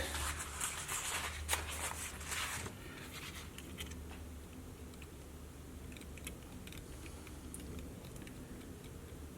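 Rag and small tools handled on a workbench: rustling and light knocks for the first few seconds, then faint scattered small clicks over a low steady hum.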